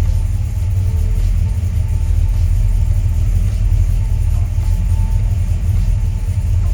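1964 Ford's engine idling steadily with a low, even exhaust note, early in its run after a cold start.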